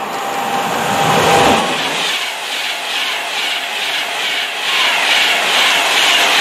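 Class 390 Pendolino electric train passing at speed. A rising rush as it approaches, a falling pitch as the front goes by about a second in, then a steady rush with a regular beat, about twice a second, as the carriages' wheelsets pass.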